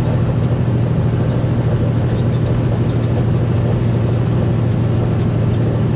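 Semi truck running down the road, heard from inside the cab: a steady low diesel drone with road noise, even throughout.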